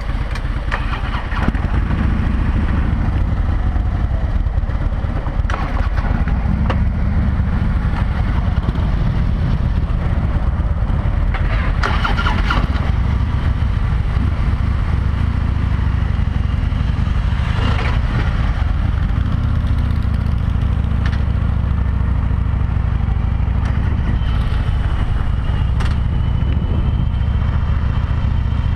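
Harley-Davidson V-twin motorcycle engine running steadily under way, a deep continuous rumble that gets louder about a second and a half in. Wind rushes over the helmet-mounted microphone and swells now and then.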